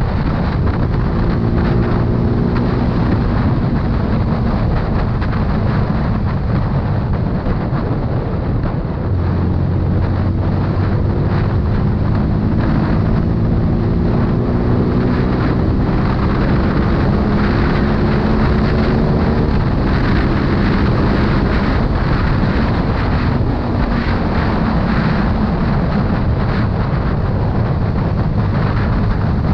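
CFMoto 250CL-X single-cylinder motorcycle engine running under way, its pitch climbing steadily as it accelerates through a gear from about nine seconds in, then dropping back at a shift. Heavy wind noise on the microphone.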